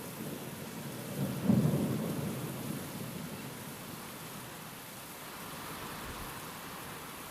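Steady rain with a roll of thunder about a second and a half in: a sudden low rumble that fades out over the next second or so.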